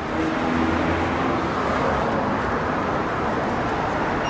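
Steady background rumble and hiss with a few faint low hums running through it.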